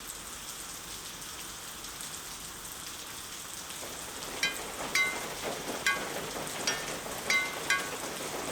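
Cartoon rain effect: a steady hiss of falling rain, joined about halfway through by short pitched water-drop plinks, about two a second.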